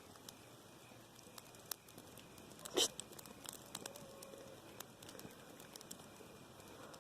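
Small campfire of twigs catching and crackling quietly: scattered faint ticks and pops, with one louder crackle nearly three seconds in.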